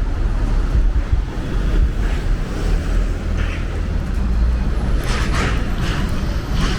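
City street ambience: a steady low rumble of traffic with wind on the microphone, and a few brief sharper noises about five seconds in.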